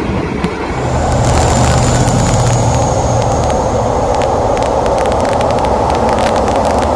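Diesel-hauled passenger train running past: the engine hum and rolling noise swell up about a second in and stay loud and steady, with many sharp clicks of wheels over rail joints and a faint high squeal.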